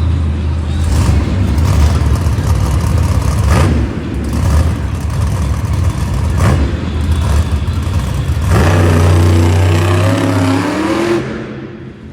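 Monster truck's supercharged V8 revving hard through a freestyle run, with sharp thuds about three and a half and six and a half seconds in. It holds steady high revs, then drops off near the end.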